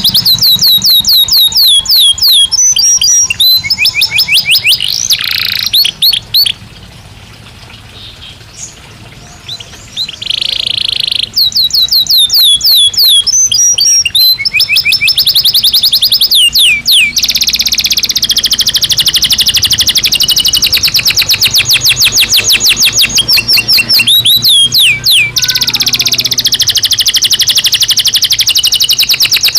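Belgian canary singing: fast runs of repeated high notes, with a short quieter pause about a quarter of the way in, then long, very fast trills through the second half.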